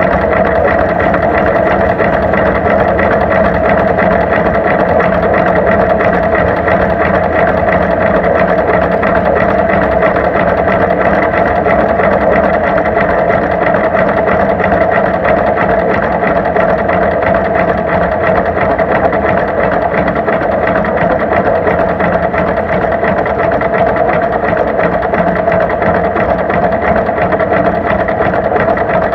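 Tractor engine running steadily at a constant speed, a loud, even, rapid clatter close by.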